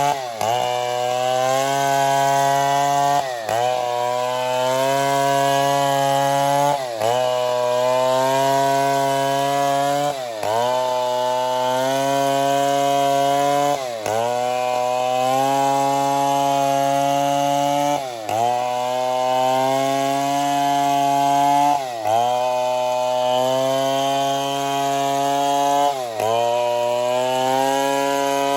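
Chainsaw running under load, cutting wood; its engine pitch dips sharply and recovers about every three and a half to four seconds.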